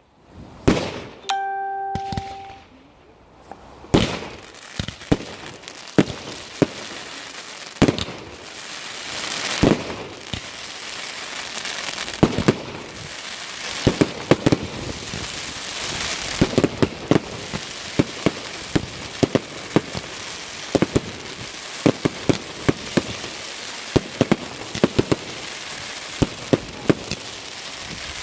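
Fireworks display: sharp bangs of exploding fireworks, a few seconds apart at first, then from about halfway coming thick and fast as rapid strings of reports over a steady hiss.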